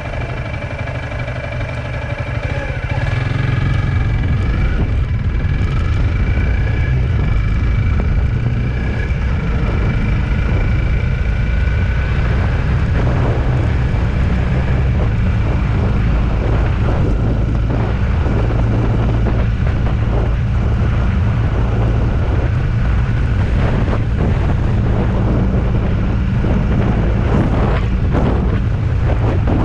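Vehicle engine and road noise heard while on the move, growing louder about three seconds in as it speeds up, with a few rising tones, then running steadily.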